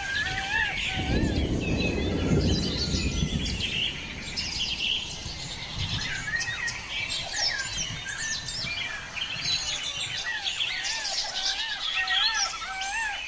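Several birds chirping and singing, one of them repeating a short rising-and-falling note about twice a second. A low rumble runs for a couple of seconds near the start.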